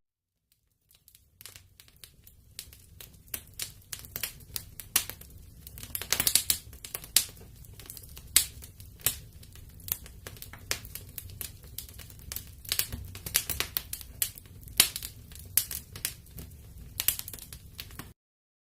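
Wood fire in a fireplace crackling, with irregular sharp pops and snaps over a low rumble. It comes in after about a second of near silence and cuts off suddenly near the end.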